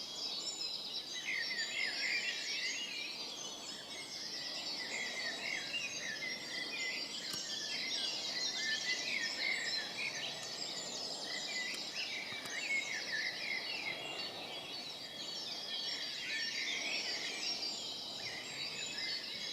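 Dense dawn chorus of many songbirds singing at once in woodland, a continuous overlapping mix of trills, chirps and whistled phrases.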